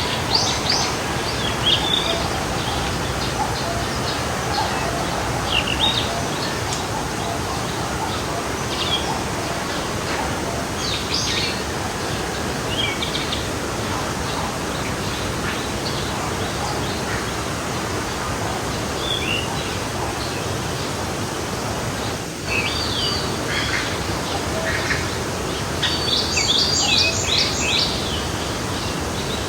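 Forest stream flowing steadily, with small birds chirping now and then over it and a quick run of repeated high notes near the end.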